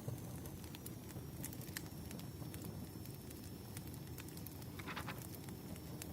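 Wood fire crackling: scattered sharp pops and snaps over the low, steady rumble of burning logs, with a brief hissing burst about five seconds in.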